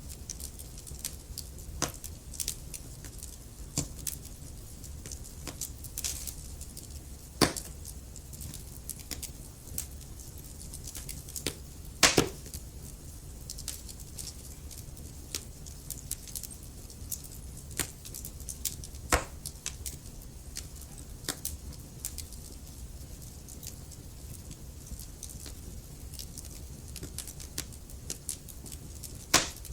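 Log fire crackling in a fireplace: irregular sharp pops and snaps over a low steady rush of burning, with the loudest pops about 7 and 12 seconds in, again near 19 seconds, and just before the end.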